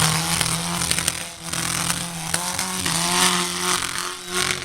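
Tough-truck engine running hard on the course, its pitch wavering as the driver works the throttle, with brief dips in loudness about a second in and again near the end.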